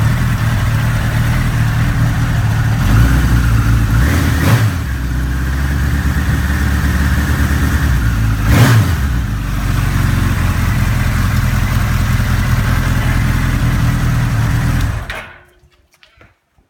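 Suzuki Katana motorcycle engine running steadily while warming up after a cold start, with a few brief rises in revs about 3 to 4.5 seconds in and again near 8.5 seconds, then switched off about 15 seconds in, stopping abruptly.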